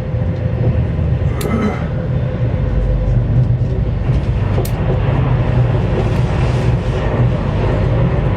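CRH1A-A high-speed electric train running, heard inside the passenger cabin as a steady, deep rumble with a faint steady hum. Two short sharp clicks come through, about a second and a half in and again near five seconds.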